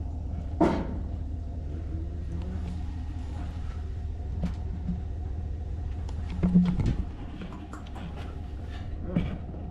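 A vehicle engine idling steadily with a low hum, with a few short knocks over it, the loudest about six and a half seconds in.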